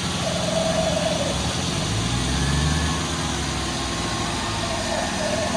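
Diesel tractor engines running, with the low engine note rising in pitch about two seconds in and settling again about a second later; a wavering higher tone comes and goes near the start and end.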